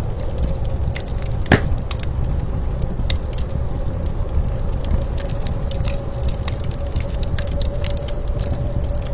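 Wood fire crackling with scattered sharp pops, one louder pop about a second and a half in, over a steady low blizzard-wind rumble that carries a faint held whistle.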